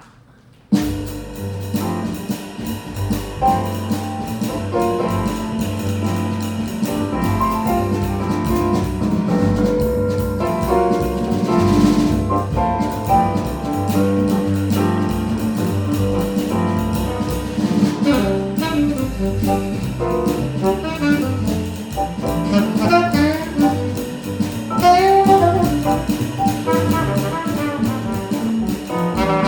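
Live jazz band (alto saxophone, trumpet, piano, bass and drums) starting a tune and playing, the horns carrying the melody over the rhythm section. The music starts suddenly less than a second in.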